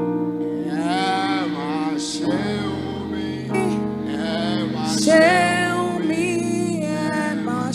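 Gospel worship music: sustained keyboard chords under a man singing ornamented, sliding vocal lines.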